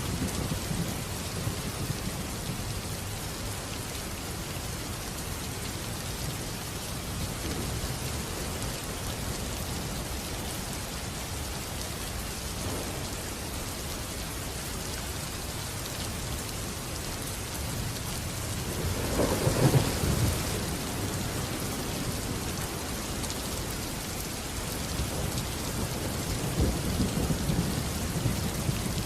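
Steady rain falling, with thunder rumbling twice: a loud rumble about two-thirds of the way through and a fainter one near the end.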